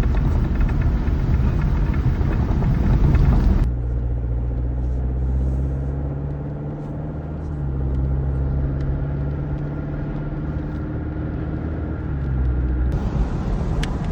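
A vehicle driving: a steady low engine drone under road noise, with a louder rushing noise for the first few seconds that returns near the end.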